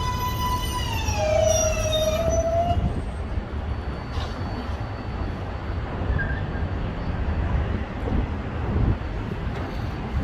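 Subway train's electric motor whine: a steady high tone that slides down in pitch about a second in and fades out by three seconds, over a low steady rumble of the train and elevated track.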